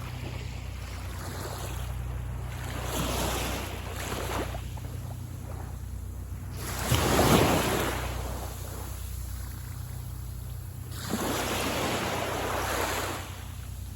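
Waves breaking and washing up onto the beach, three washes of surf, the loudest about seven seconds in.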